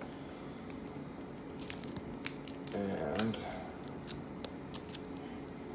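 Light crackling and clicking of plastic card packaging being handled and opened, a quick run of sharp little crinkles through the middle of the stretch.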